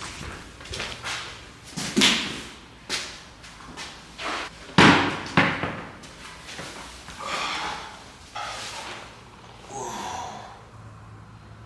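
A series of heavy, irregularly spaced thuds and slams during a workout, the loudest about two and five seconds in, with softer knocks between.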